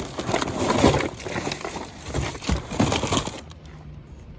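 Trash being handled in a dumpster: irregular rustling, crunching and knocking that dies down after about three and a half seconds.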